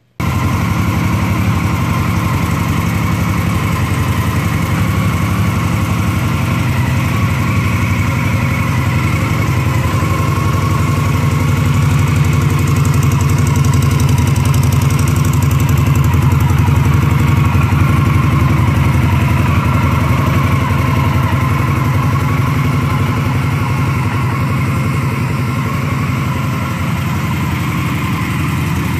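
2016 Indian Scout's 1,133cc V-twin engine idling steadily, growing a little louder in the middle.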